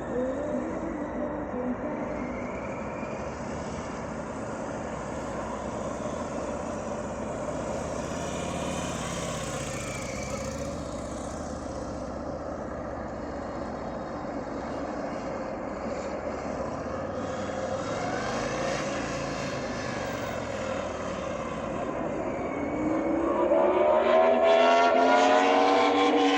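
Harley-Davidson Fat Boy's V-twin engine running on the move, with steady wind and road noise. About 23 seconds in it grows louder and its pitch rises as the bike accelerates.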